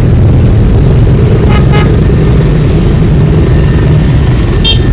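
Many motorcycle engines running loudly as a procession of bikes rides past, with two quick horn toots about a second and a half in and a brief shrill sound near the end.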